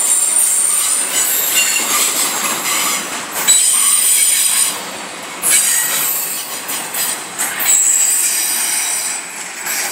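Intermodal freight train of container well cars rolling past close by, its wheels squealing in several steady high tones that come and go. A few sharp knocks from the cars, one about three and a half seconds in and another near the middle.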